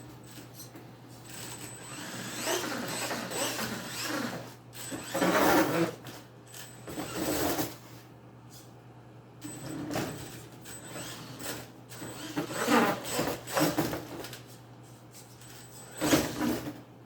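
Venom Mini Giant RC monster truck's electric motor and gears whirring in repeated short bursts of throttle, about six in all, with knocks as the truck bumps over cardboard.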